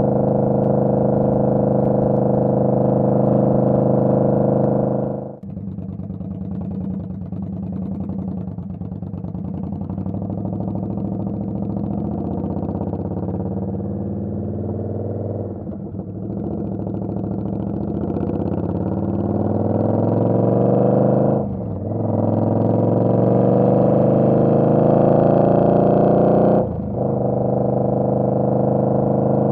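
Indian Scout Bobber's V-twin engine under way: it holds a steady note, the throttle shuts sharply about five seconds in, then it pulls up through the gears, the pitch rising in each gear and dropping briefly at three upshifts.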